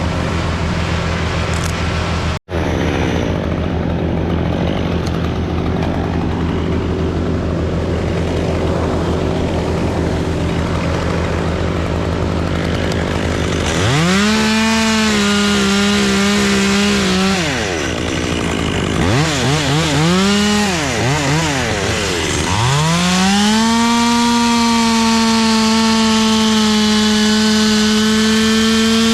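Two-stroke chainsaw idling with a low hum, then revved to full throttle about halfway through and held there for about four seconds. It drops back, is blipped a few times, and goes back to full throttle as it cuts through the beech wood.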